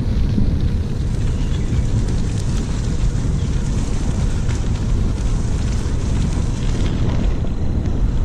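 Wind buffeting the microphone of a camera riding along on a moving bicycle, a steady low rumble.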